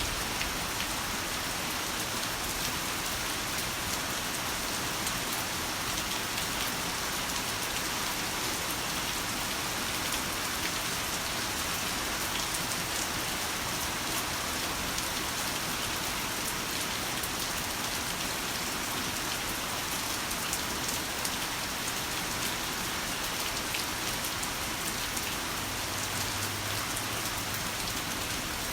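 Heavy rain falling steadily, an even, unbroken wash of drops with no thunder.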